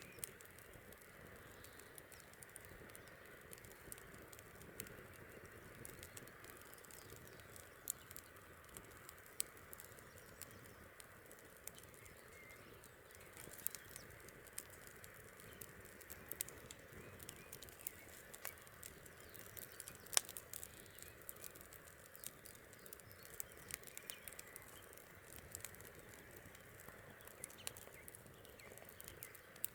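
Wood fire crackling faintly, with frequent irregular sharp pops and snaps over a soft steady background hiss.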